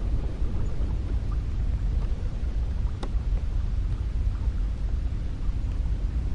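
Cold wind blowing as a steady, low rumbling noise, with a faint click about three seconds in.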